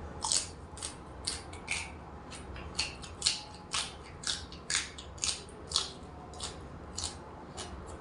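A person chewing crunchy food close to the microphone, with crisp crunches about twice a second.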